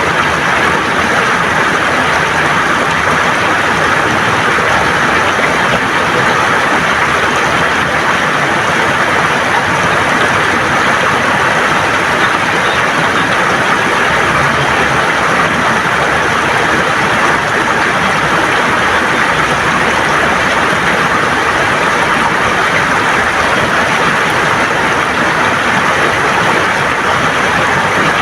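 River water gurgling over stones, a steady, even rush of flowing water.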